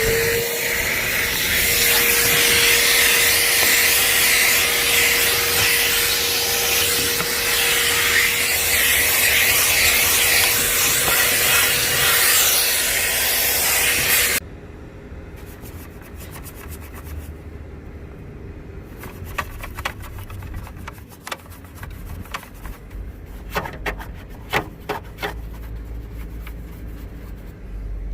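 Vacuum cleaner switching on with a short rising whine, then running loud and steady with a hissing rush of air and a held motor tone, cleaning out a truck's interior; it cuts off suddenly about halfway through. Quieter clicks and rubbing follow.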